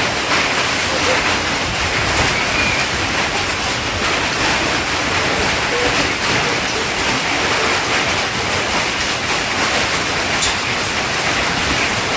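Heavy rain with hail coming down: a steady, dense hiss of the downpour, dotted with faint ticks of hailstones striking.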